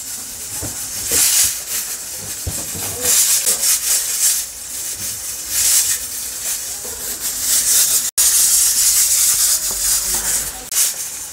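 Thick onion-tomato masala sizzling in oil as it is stirred and scraped around a pot with a silicone spatula, the hiss swelling with each stroke about every second and a half. The masala is being fried until the oil separates from it. The sound cuts out for an instant just past the middle.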